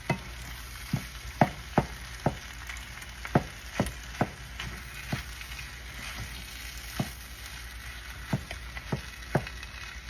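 Leftover hash brown casserole frying in butter and onions in a pan, a steady sizzle with irregular sharp clicks of a utensil scraping and knocking the pan as it is stirred.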